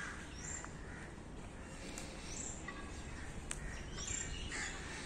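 Birds calling in the trees: short high chirps every second or two and a few lower calls over a low, steady outdoor background.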